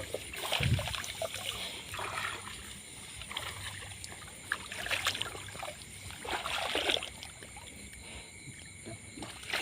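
Irregular water splashing and sloshing, with a few short knocks.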